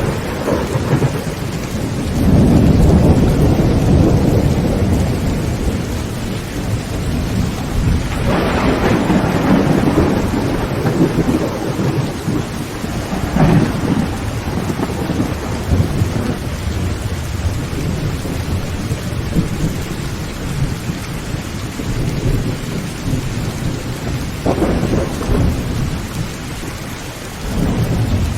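Heavy rain drumming steadily on a tin roof, with rolling thunder. The biggest rumbles build about two seconds in and again about eight seconds in, a sharper crack comes around thirteen seconds, and another rumble rolls in near the end.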